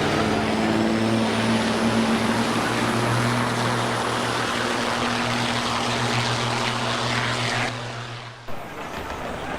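Semi truck's diesel engine running hard at steady high revs, a loud drone that fades away near the end.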